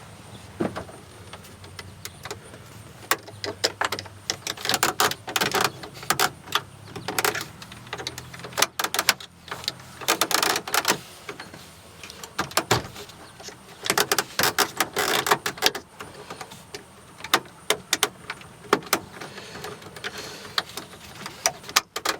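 Small screwdriver prying at the plastic tabs of a Chevy truck's dash-mounted four-wheel-drive switch panel: irregular scraping, clicking and rattling of plastic as it works the clips loose.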